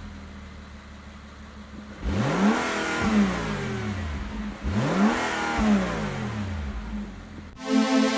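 Range Rover Velar engine idling, then revved twice, each rev climbing quickly in pitch and sinking back to idle. Electronic music comes in near the end.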